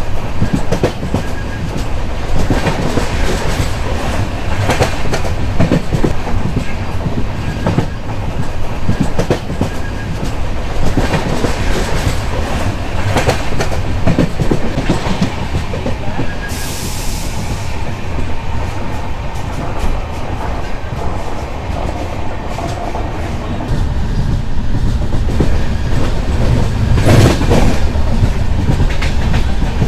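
Express train of LHB coaches running at speed, a steady rumble with the wheels clattering irregularly over rail joints. A short hiss comes just past the middle, and a louder rush near the end.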